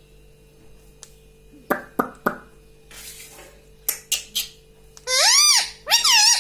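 Ringneck parrot giving a loud call whose pitch rises and falls, about five seconds in, followed at once by a second, shorter call. A few sharp clicks come before it, three close together a little under two seconds in and more around four seconds.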